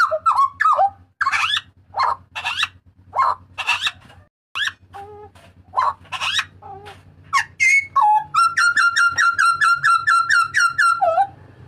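Hooded butcherbird calling loudly: a string of sharp, sweeping whistled notes, then about two-thirds of the way in a rapid run of repeated notes, about four a second, lasting some three seconds.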